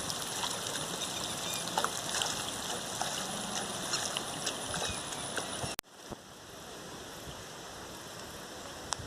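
A small stream's water flowing and splashing, a steady rush with small scattered clicks. Just before halfway it cuts off abruptly to a quieter, steady background.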